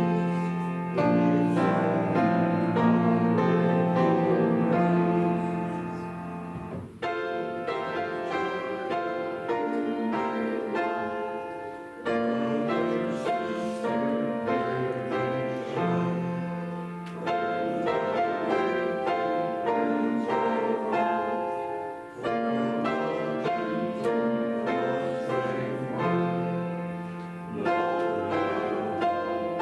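Piano playing a hymn in sustained chords, in phrases with short breaks about every five seconds.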